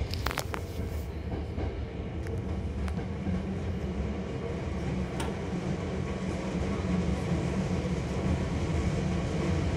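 Hankyu Kobe Line train car's interior running noise: a steady low rumble that grows slightly louder, with a few light clicks near the start.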